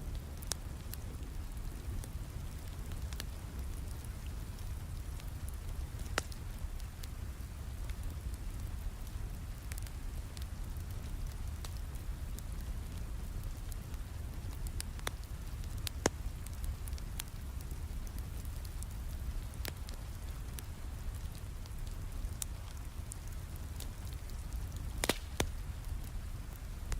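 Steady rain with a wood fire crackling: a constant low rumble of rainfall under scattered sharp pops and snaps from the burning logs, two of them louder, about sixteen seconds and about twenty-five seconds in.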